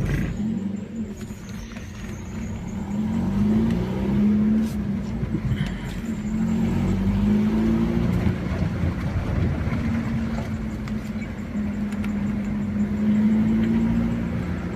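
Car engine and road rumble while driving, the engine note rising and then dropping several times as the car speeds up and changes gear.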